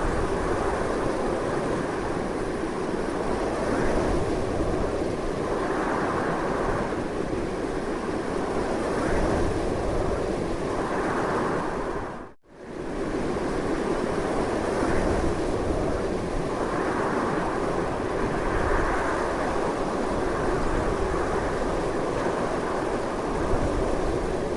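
Strong wind blowing steadily, swelling and easing in gusts. About halfway through it drops out for a split second, then resumes.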